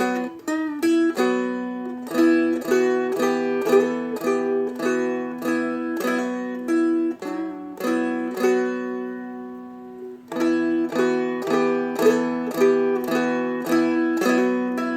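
Seagull Merlin M4, a four-string steel-strung dulcimer-style instrument, capoed at the first fret and picked with downstrokes: a melody over ringing drone strings, with a bend on the second string. The phrase plays through, rings out about nine seconds in, and starts again a second later.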